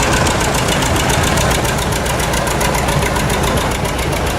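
Antique tractor engine running steadily with an even, rapid firing beat.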